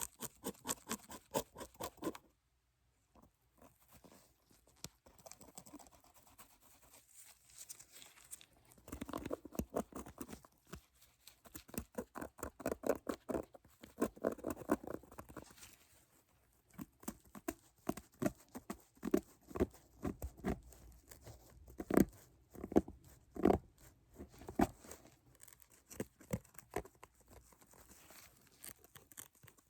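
Close-miked ASMR handling sounds: quick, irregular light taps, clicks and rustles. There is a short pause a couple of seconds in, and a few louder taps about two-thirds of the way through.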